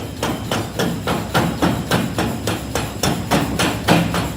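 Hammering on metal: a steady run of sharp, evenly spaced strikes, about three to four a second.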